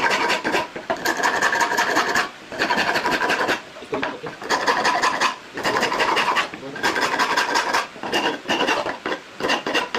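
Hand file rasping wood in long back-and-forth strokes of about a second each with short pauses, about eight strokes in all, rounding out a hole cut in the wooden piece.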